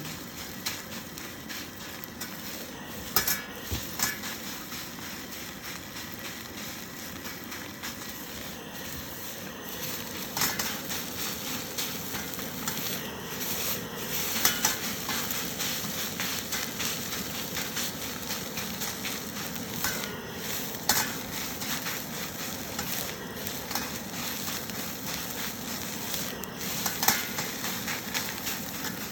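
Fried rice sizzling in a wok as it is stir-fried, with a spatula stirring it and a handful of sharp knocks of the spatula on the wok.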